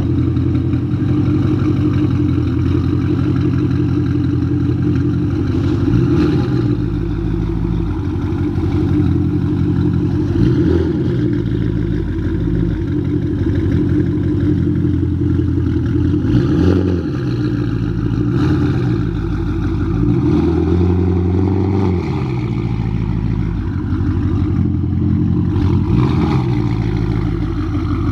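Porsche Panamera Turbo's twin-turbo V8 idling through a custom 3.5-inch stainless GT3-style exhaust, revved briefly several times. Each rev rises in pitch and falls back to idle.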